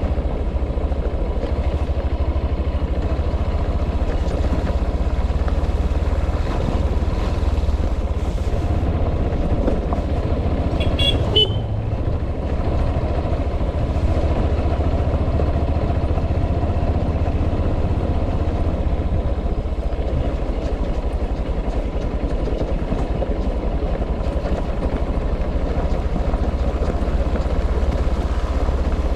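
Steady running of a vehicle engine with rumbling road and wind noise, and a short high-pitched toot, like a horn, about eleven seconds in.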